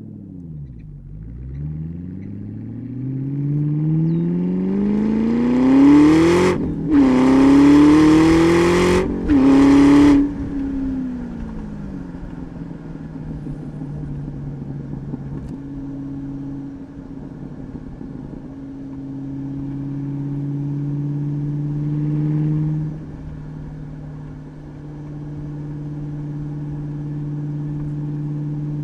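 2003 Ford SVT Cobra's supercharged 4.6-litre V8 through a Bassani cat-back exhaust, accelerating hard with the revs climbing, shifting up twice in quick succession about six and a half and nine seconds in. About ten seconds in the driver lifts off and the engine settles into a steady, lower cruise.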